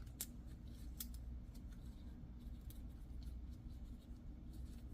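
Faint light metallic clicks and scrapes of a thin steel piston ring being worked onto the piston by hand, scattered irregularly over a steady low background hum.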